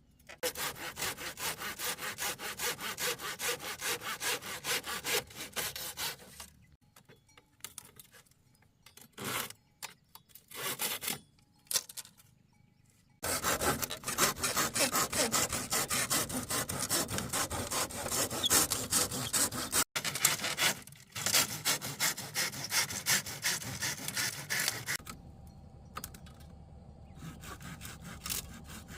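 Hand saw cutting through wood with quick back-and-forth strokes, in two long runs broken by a pause of a few seconds, the strokes weaker near the end.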